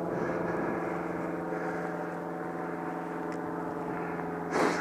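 An engine running steadily at a constant pitch, with a short rustle near the end.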